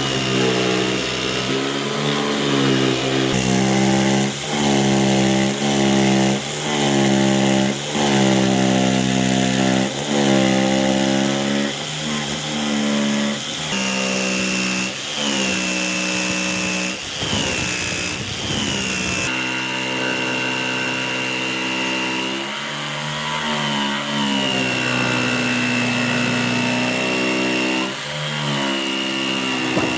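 Electric power tool motor running, its pitch dipping and recovering again and again as the tool bites into the work and eases off, with a high whine riding on it.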